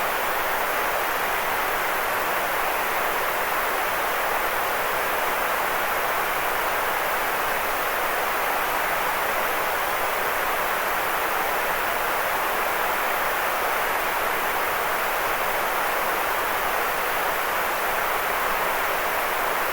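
Sleep-aid white noise: a steady, unchanging hiss, fullest in the middle range and thinner in the deep lows and the highest treble.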